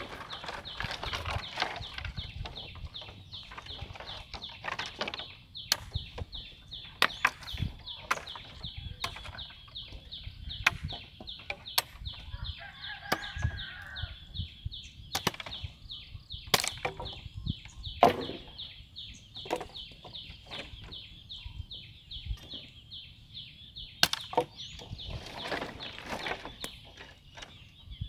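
Irregular chopping strokes of a hand tool cutting into brush and ground during land clearing, roughly one or two sharp hits a second, over a steady high-pitched pulsing buzz.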